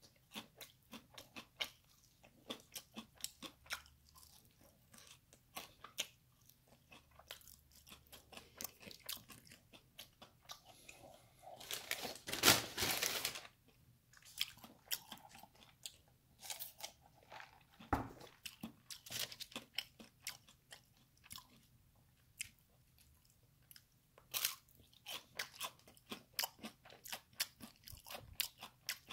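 Close-up chewing of crispy fried chicken: a steady run of short, crisp crunches, with a louder burst of crunching about twelve seconds in.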